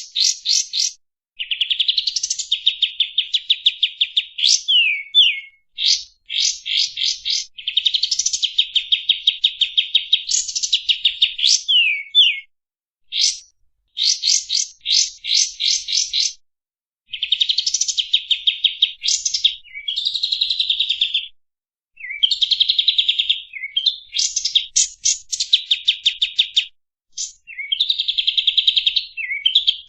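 Kapas tembak songbird singing: long runs of fast, chattering trills, often opening with quick rising notes, repeated phrase after phrase with brief pauses between them.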